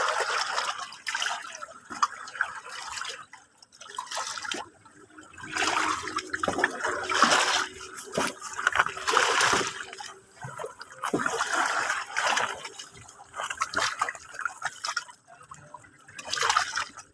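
Sea water washing and lapping at the shore in irregular surges every one to three seconds, with quieter gaps between.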